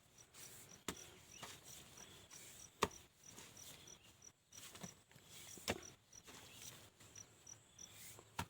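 An insect chirping faintly in a steady run of short, high chirps, about three a second, with a brief break about three-quarters of the way through. Four sharp knocks are spread through it, the loudest a little before the middle.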